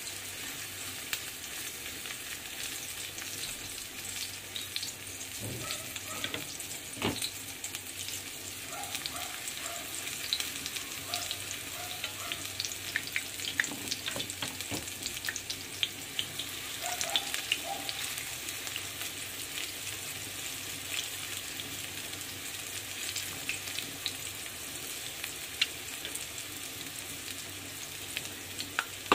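Corn fritter batter frying in hot oil in a cast-iron skillet: a steady sizzle with fine crackling, and a couple of sharp knocks about six and seven seconds in.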